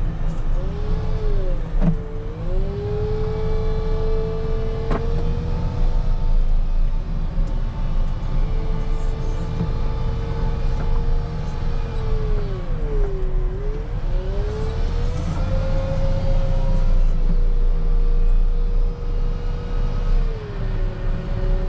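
Wheel loader's diesel engine running under a steady low rumble, with a held whine from the drivetrain that sags in pitch and comes back up about three times as the machine works.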